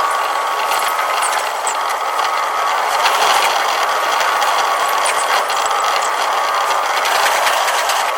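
Tokyu 5050 series electric train running, heard from the driver's cab in double-speed playback: steady running noise with a thin steady whine and frequent sharp clicks.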